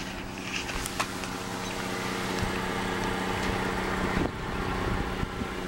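A 2012 Dodge Grand Caravan's 3.6-litre V6 idles with a steady hum, heard at the rear of the van by the exhaust, with wind noise over it. The noise swells around the middle and drops off sharply a little after four seconds in.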